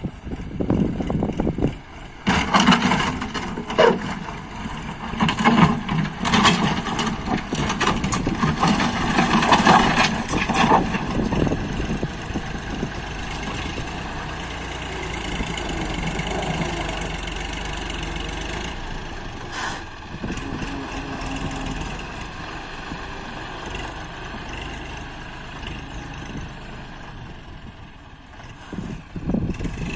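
John Deere 5310 tractor's diesel engine running, with loud irregular crackling and clatter for about the first ten seconds before it settles into a steadier running sound.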